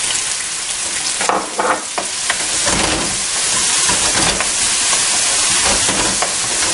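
Chopped onion and garlic sizzling in hot olive oil, stirred with a wooden spoon that scrapes and knocks against the steel pot; a steady loud hiss with a few sharper knocks in the first two seconds.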